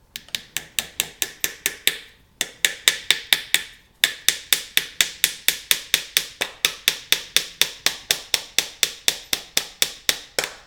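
Hammer driving 1¼-inch finishing nails into a wooden beehive frame: quick, light, evenly spaced taps, about five a second, in three runs with brief pauses about two and four seconds in, the last run long.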